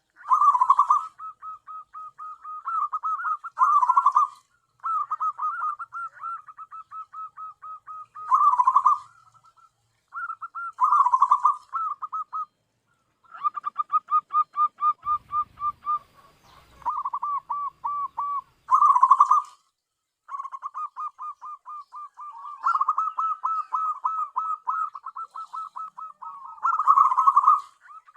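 Zebra dove (perkutut) cooing: repeated phrases of quick staccato notes, each phrase ending in a louder cluster of notes, with short pauses between phrases.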